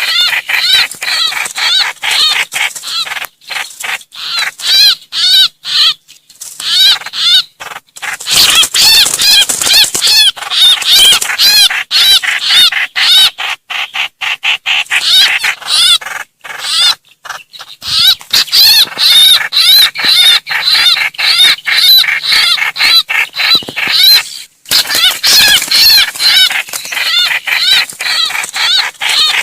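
Distress and flock-gathering calls of the trao trảo bird, played as a trapping lure: loud, rapid runs of harsh repeated chirps, broken by short pauses.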